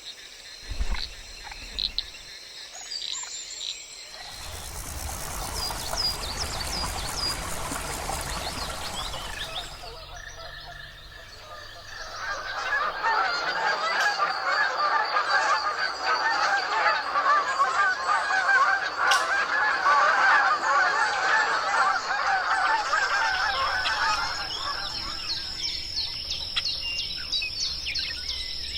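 Wild birds calling. Scattered high chirps come first, then from about twelve seconds in a dense, loud chorus of many birds calling at once, which thins out near the end.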